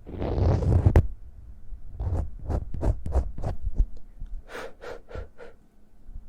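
Close-miked hand sounds. Palms rub together for about a second. After a short pause come about eight quick swishes and pats in under two seconds, then four or five lighter, brighter strokes.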